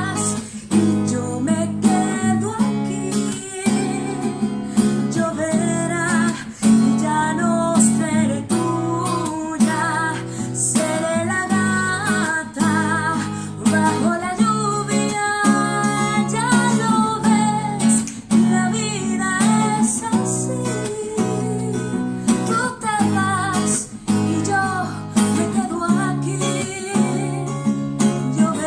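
Acoustic guitar strummed and picked, playing a slow ballad accompaniment with a moving melody line over steady low chords.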